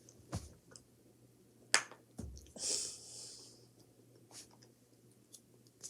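A few scattered sharp clicks and a low thump, with a short breathy hiss about two and a half seconds in.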